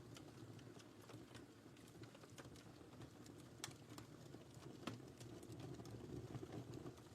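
Wood fire in a fireplace crackling quietly: scattered sharp pops and snaps over a soft, steady low rumble of the flames, with two louder pops about three and a half and five seconds in.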